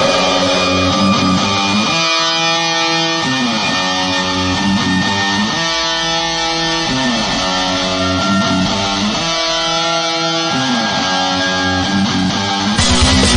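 Music: slow guitar chords that change about every two seconds, with sliding notes between them. A denser, louder layer comes in near the end.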